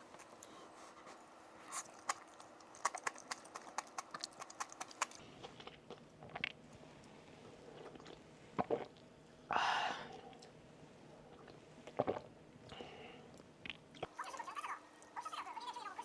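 A person eating: chewing and crunching food, with many short sharp clicks and a louder crunch about two-thirds of the way in.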